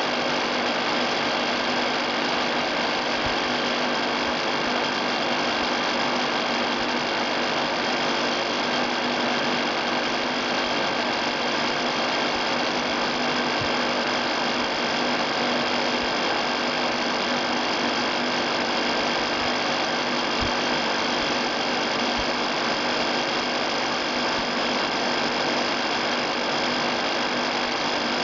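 Fan of a DIY cardboard-box air cooler running steadily: an even rush of air with a constant hum of several steady tones, and a few faint low knocks.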